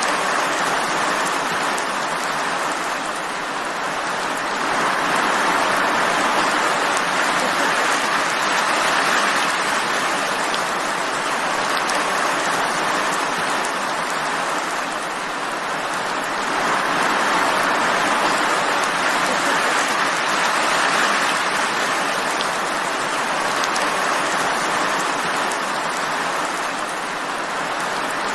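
Steady rain, an even hiss that swells and eases slowly twice.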